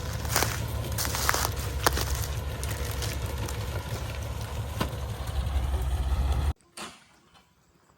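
Small truck's engine running with a steady low rumble, scattered clicks and knocks over it. The sound cuts off abruptly about six and a half seconds in, leaving near quiet.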